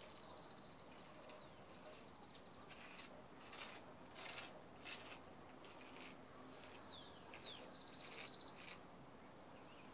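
Near silence with faint birds chirping, a few short falling whistles, and a handful of faint short scratches in the middle.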